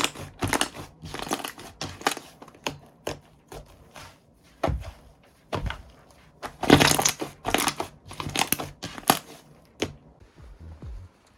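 Slime being squeezed, pressed and stretched by hand, giving an irregular run of sharp crackles and pops with a few longer bursts.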